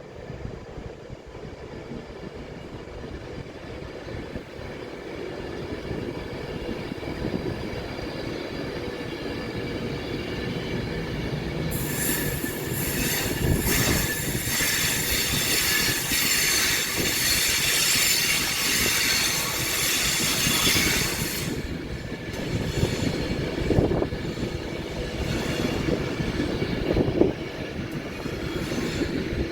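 A train rolling past, its rumble building steadily. About twelve seconds in, a high metallic squeal from the wheels on the rails sets in, lasts roughly ten seconds and cuts off. Rumbling and a few louder clacks follow.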